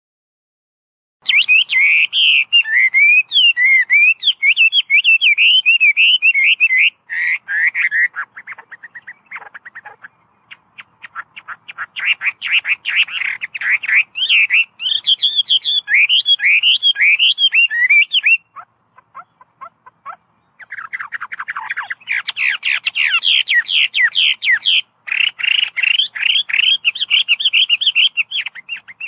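Chinese hwamei (melodious laughingthrush) singing: a long, rapid, varied song of sliding whistled notes and quick repeated trills. It starts about a second in and comes in several long bursts broken by short pauses.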